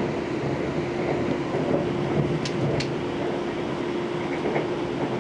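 Running noise of a passenger train heard from inside the carriage: a steady rumble with a constant low hum, and two short clicks a little past halfway.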